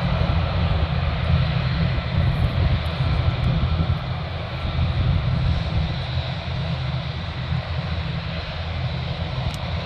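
Aircraft engines running, a steady roar with a deep rumble and faint high whining tones, easing off slightly midway.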